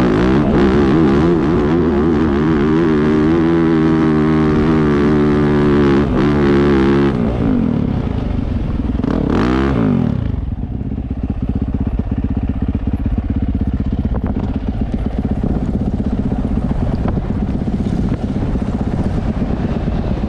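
Dirt bike engine working hard up a hill climb, its revs rising and falling for about seven seconds before it backs off. Around nine seconds in there is one quick rev up and back down, and then the engine settles to a steady idle.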